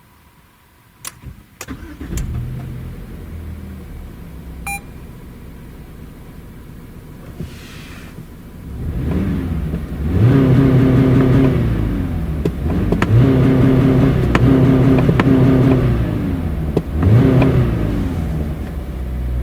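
Subaru Crosstrek e-Boxer's 2.0-litre flat-four engine: a couple of clicks, then the engine settles to a low idle, with a short beep about five seconds in. From about nine seconds the engine revs up and holds high revs three times, dropping back between them.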